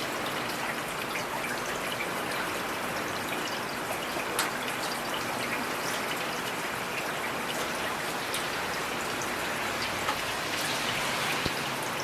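Heavy rain falling steadily, a dense hiss with the sharper taps of individual drops hitting surfaces scattered through it.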